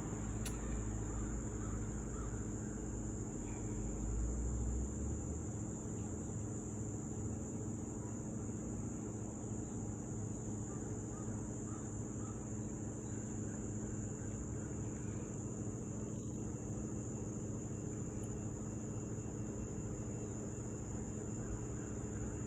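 Insects trilling in a steady, unbroken high-pitched chorus outdoors, with a low rumble under it for the first few seconds.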